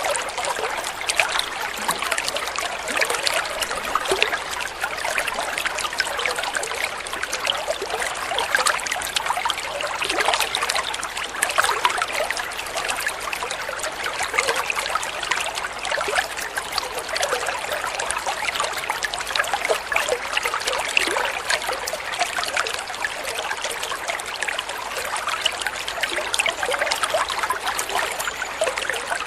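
Flowing water trickling and splashing steadily, a continuous dense patter of small splashes with no pauses.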